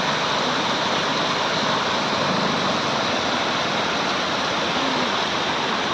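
Waterfall in full monsoon flow: a steady, unbroken rush of water.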